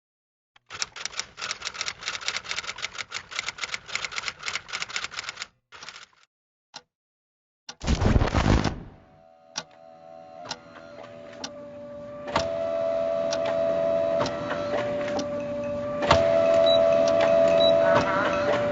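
Rapid typing clicks on keys for about five seconds, a few more after a short pause, then a brief loud whoosh about eight seconds in. After that a steady hum-like tone with regular ticking builds gradually louder.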